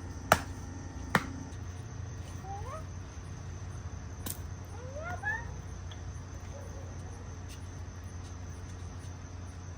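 Crickets or other night insects giving a steady high trill, with three sharp pops from the campfire, the first two close together and the third a few seconds later. A couple of faint rising calls sound in the background.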